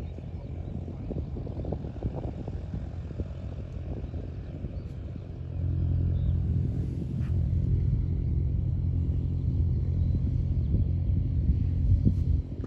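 Piston engine of a light aircraft running with a steady low drone, growing louder about halfway through and easing off near the end, with some low rumble.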